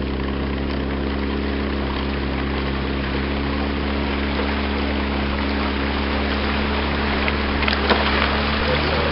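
A motorboat's engine running at a steady speed, with a constant hum and a rushing hiss over it.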